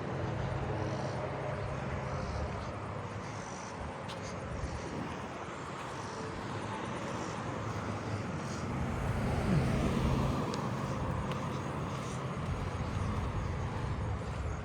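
Low engine rumble of a passing vehicle, swelling to its loudest about ten seconds in and then easing off. Faint insects keep trilling high above it.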